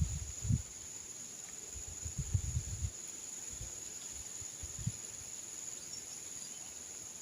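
Insects droning steadily in one high, unbroken note, with wind gusting against the microphone in low rumbles about a second in and again near the end of the third second.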